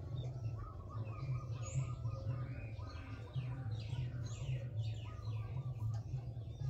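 Small birds chirping, with quick falling chirps and a fast trill, over a continuous low pulsing rumble.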